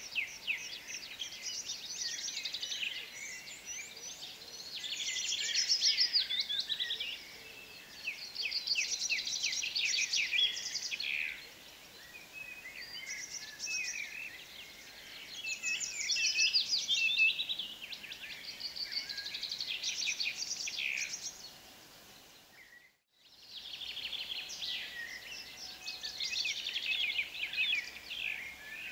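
Songbirds singing in phrases of rapid chirping notes, with short lulls between phrases. All sound dips out for about a second about three-quarters of the way through, then returns.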